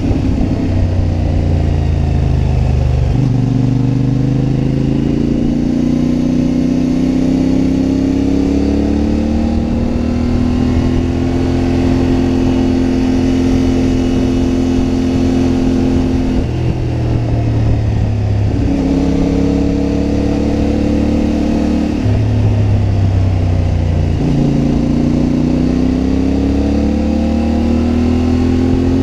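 CFMoto MT450 parallel-twin motorcycle engine under way, its pitch climbing through the revs and dropping sharply at several gear changes, with a steadier stretch of cruising in the middle.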